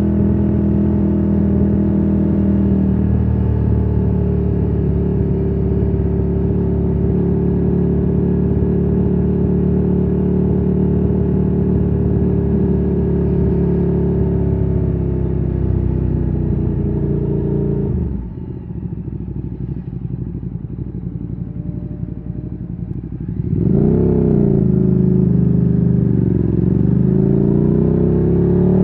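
Ducati Streetfighter 848's L-twin engine through a Termignoni exhaust, pulling at a steady note. About eighteen seconds in the throttle closes and the engine drops to a lower, quieter note for about five seconds. It then revs up sharply and accelerates again, its pitch rising near the end.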